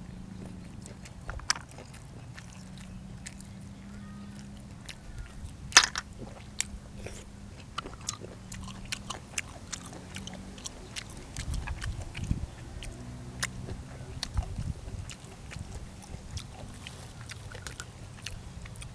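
Close-miked chewing and biting of food, with many sharp clicks scattered through it and one loud click about six seconds in. A low steady hum runs underneath.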